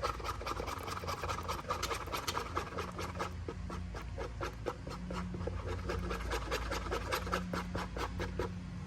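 Plastic knife stirring and scraping two-part plastic epoxy around a small bowl, a quick run of short scraping strokes about three or four a second that stops near the end. The epoxy is being mixed until combined.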